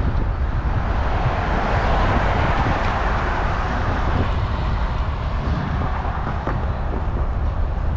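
Wind buffeting the microphone of a moving bicycle, with a steady rush of road and traffic noise that swells about two to three seconds in.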